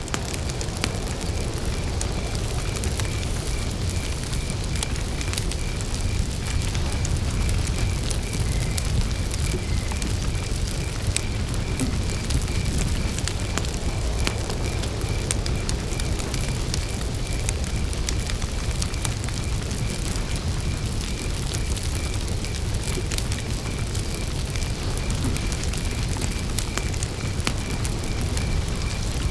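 Wood campfire crackling and popping over a low, steady rumble, with a cricket chirping in an even, regular rhythm behind it.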